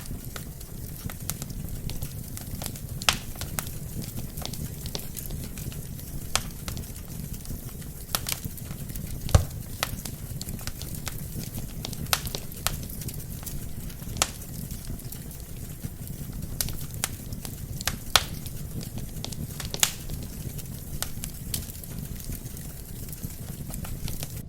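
Wood fire burning in a fireplace, crackling with irregular sharp pops over a steady low rumble of the flames. The loudest pop comes a little over nine seconds in.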